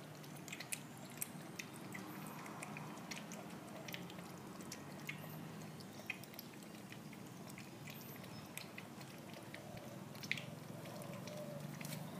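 Month-old puppy's wet mouth sounds: scattered small clicks and smacks at irregular intervals, over a low steady hum.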